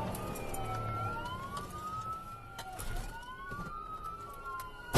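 Police siren wailing, its pitch sweeping slowly up and down.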